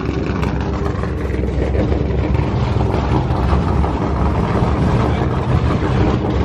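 A vehicle engine running steadily at low revs, a constant low rumble.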